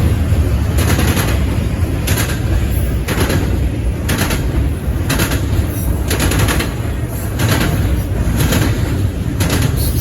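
A long freight train's cars rolling past, their wheels clacking over the rail joints about once a second over a steady low rumble.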